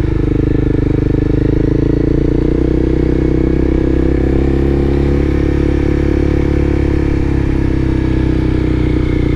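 Engine of a vehicle being driven at low town speed, running steadily with a deep, even hum that shifts slightly in pitch a few times.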